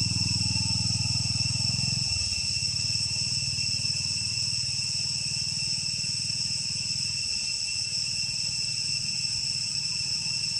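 Insects droning steadily in a high, unbroken chorus, with a low rumble underneath that eases a little about two seconds in.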